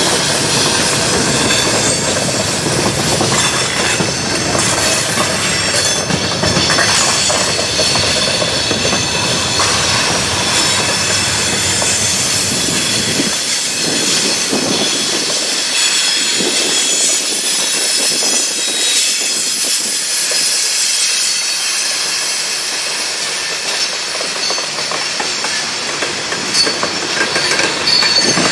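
Freight train rolling past, its wheels giving a steady high squeal over a continuous rolling roar. A deep rumble underneath fades out about halfway through, leaving mostly the squeal and the noise of the wheels.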